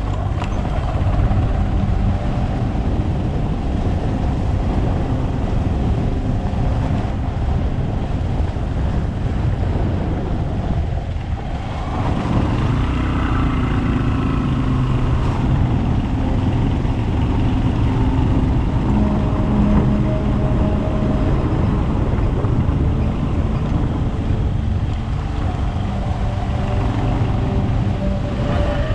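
A vehicle engine running steadily while driving, its pitch shifting a little now and then, over a loud low rumble of wind and road noise.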